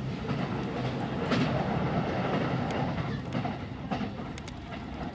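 Inside a JR East commuter electric train running at speed: a steady rumble of wheels on rail, with irregular clicks from the wheels passing over the track, a little louder in the middle.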